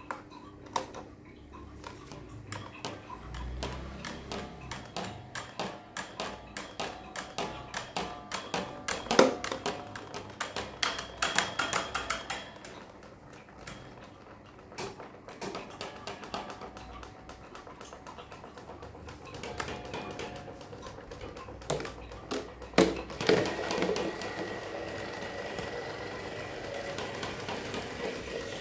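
Rapid uneven clicking and clattering of hard objects, then a steady whirring with a thin high whine starting about three-quarters of the way through, like an electric fan spinning up.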